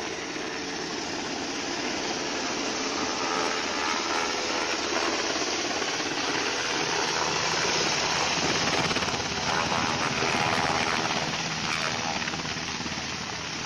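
Helicopter rotor and engine running close by: a loud, steady wash of noise with a rapid fluttering chop from the blades.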